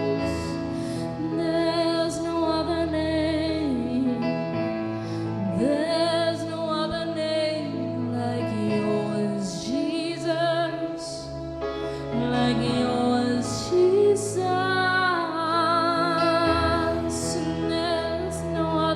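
Live worship music: a woman's voice singing long, wavering notes, with no clear words, over sustained instrumental chords.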